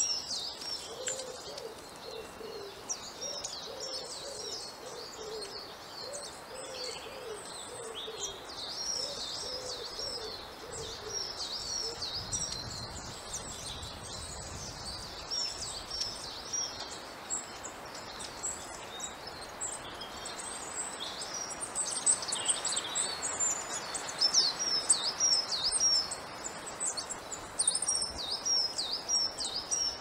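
Small woodland birds, tits among them, keep up a busy chatter of high, thin chirping calls: quick clusters of short downward notes that grow louder and busier in the last third. A lower, repeated call sounds in the background through roughly the first ten seconds.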